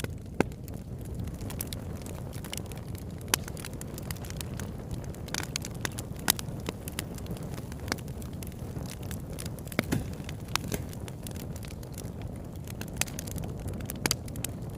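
Wood campfire burning: a steady low rumble of the flames with irregular sharp crackles and pops from the burning wood.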